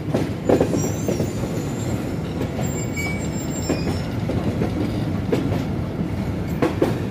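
Passenger coach of the Pakistan Express running through a junction, heard from aboard: a steady rumble of wheels on rail with a few sharp knocks as the wheels cross rail joints and points, the strongest about half a second in and twice near the end.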